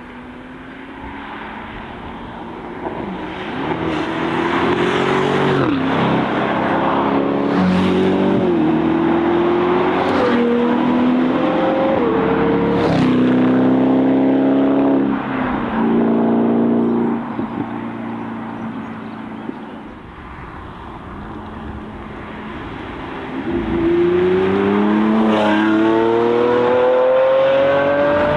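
Sports cars accelerating hard, the engine note climbing and dropping back at each of several quick upshifts. The sound eases off in the middle, and another hard acceleration with a gear change starts a few seconds before the end.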